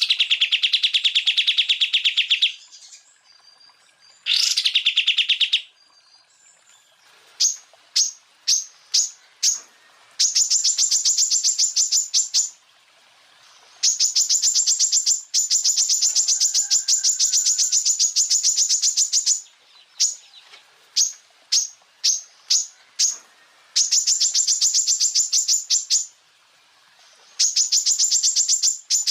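Cucak ijo (greater green leafbird) singing rapid-fire 'tembakan' phrases. It opens with two bouts of fast, dense trilling, then gives a run of short sharp high notes about two a second, then long, very rapid high trills separated by brief pauses.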